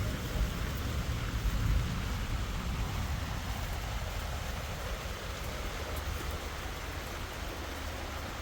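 Steady rain, with a gusty low rumble of wind buffeting the microphone, loudest in the first couple of seconds.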